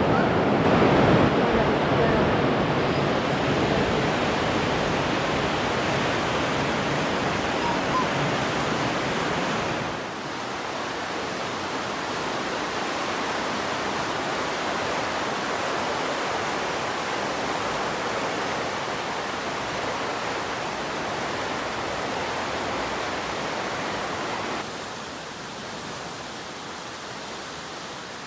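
Whitewater of a river rushing through a narrow rock gorge, a steady noise that steps down in level about ten seconds in and again near the end.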